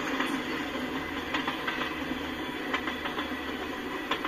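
Freight cars rolling past at speed: a steady rumble and rattle of steel wheels on rail, with a few sharp clicks as wheels cross rail joints.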